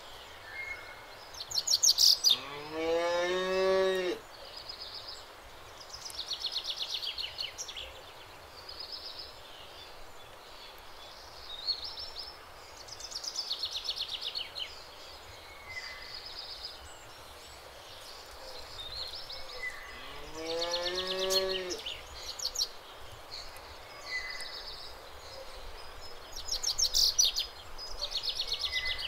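Cattle mooing twice, each moo about two seconds long and rising in pitch before it levels off. The first comes about two seconds in and the second about twenty seconds in. Birds chirp in short bursts in between.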